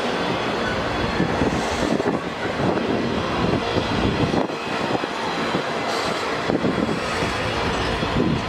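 Covered grain hopper cars of a long freight train rolling past, with a steady rumble and clatter of steel wheels on rail.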